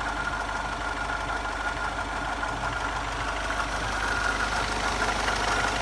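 Mercedes-Benz W202 C 220 CDI four-cylinder common-rail diesel engine idling steadily. A faint steady whine from the belt drive runs over it, which the owner puts down to some pulley or roller making a slight noise.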